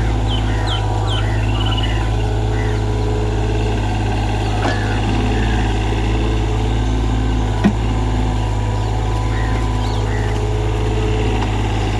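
Komatsu PC30MR mini excavator's diesel engine running steadily with a low hum, and a single sharp click about seven and a half seconds in.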